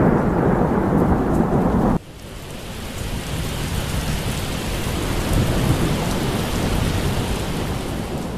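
Thunder rumbling, cut off abruptly about two seconds in, then a steady hiss of rain.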